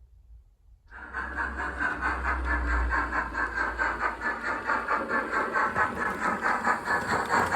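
Model train running on the layout's track, starting about a second in: a rapid, even clatter of about five or six beats a second.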